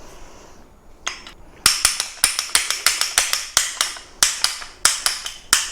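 Ratcheting copper tube bender clicking as its handle is worked to drive the bending shoe against 3/4 copper tube: a quick, even run of sharp clicks, about four to five a second, starting about a second and a half in.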